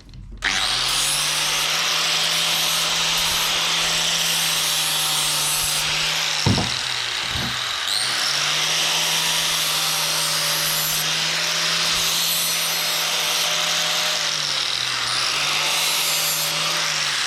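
Electric power tool running under load on stainless steel exhaust tubing: a steady motor hum under a loud grinding hiss. A knock comes about six and a half seconds in, and the motor briefly slows near the end.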